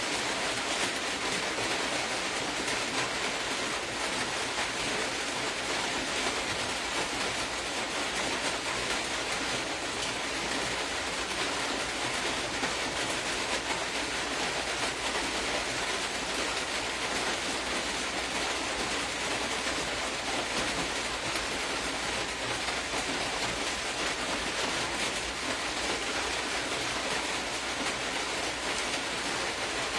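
A steady, even hiss with no breaks or distinct events.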